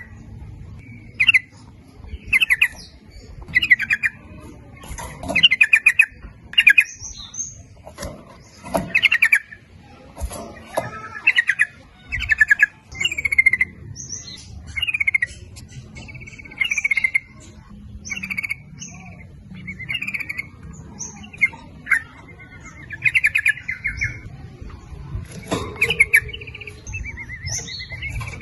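Yellow-vented bulbul (trucuk) singing: short, bubbly chattering phrases repeated about once a second, with sharp clicks between some of them.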